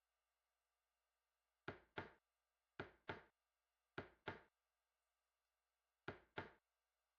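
Four double knocks, two quick knocks each, spaced about a second apart with a longer gap before the last pair.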